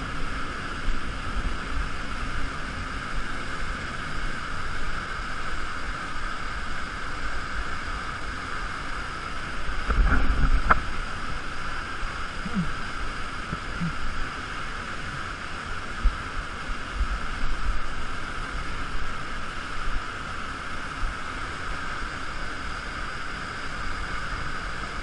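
Steady rushing of a waterfall close to the microphone, with low rumbling underneath and a louder, deeper surge about ten seconds in.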